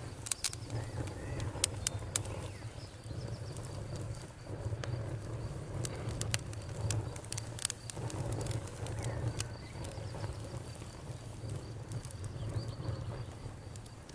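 Campfire crackling, with sharp pops scattered irregularly through it over a low steady rumble. A faint steady high insect trill runs underneath.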